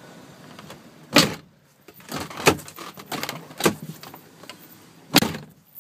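A pickup truck's door and cab fittings being handled: four sharp clunks, the loudest about a second in and another near the end, with lighter clicks and rattles between.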